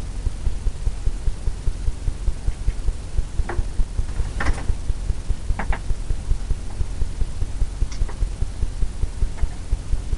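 A steady low throbbing hum, pulsing about four times a second, with a few faint clicks and scrapes scattered through it.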